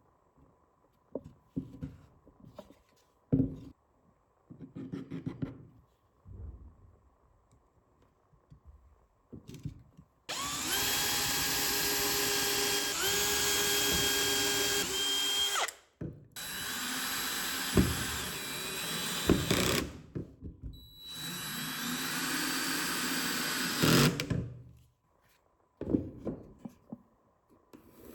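A few light knocks and taps on wood, then an electric drill running in three long bursts of about four to six seconds each. Each burst starts with a quick spin-up, and the whine dips in pitch in steps as the drill comes under load.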